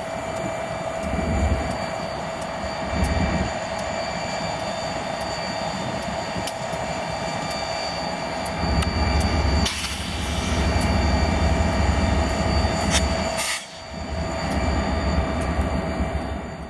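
Freight train rolling past: a steady rumble of cars on the rails that swells and fades, with repeated clicks from wheels over rail joints.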